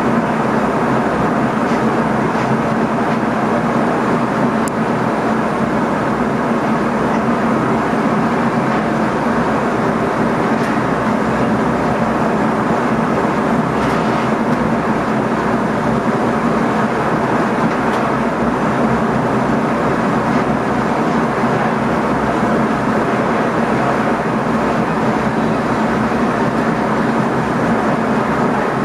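Steady running noise inside the driver's cab of an NS ICM (Koploper) electric multiple unit on the move: wheels rumbling on the rails under a constant low hum, with a few faint ticks.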